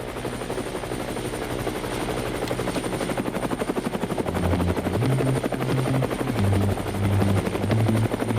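Helicopter rotor sound, a fast, steady chop with a thin high whine over it. About halfway through, low bass notes of music come in under it.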